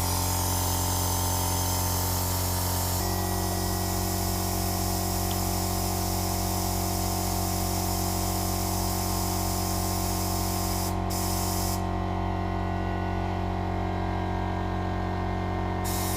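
Steady hiss of compressed air over a steady hum while air is drawn out of a motorcycle brake line during bleeding. The sound shifts slightly about three seconds in, and its highest hiss drops away near the end.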